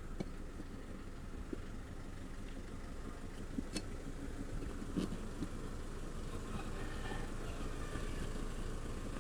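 An engine idling steadily, with a few faint sharp clicks.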